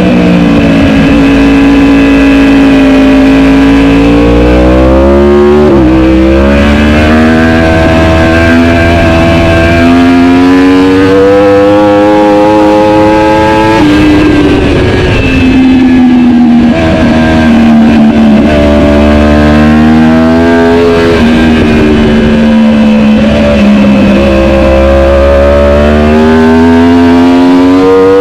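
Superbike race engine at full racing speed, its pitch climbing under hard acceleration and dropping suddenly at gear changes about 6 and 14 seconds in. At other points the pitch falls more slowly as the bike slows for corners, then rises again.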